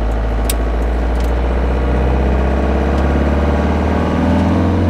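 Motorhome engine running steadily under way with a strong low drone, heard from inside the cab.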